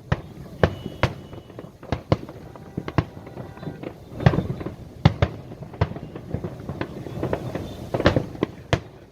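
Aerial fireworks bursting in quick irregular succession, several sharp bangs a second, with the loudest bangs about four and five seconds in.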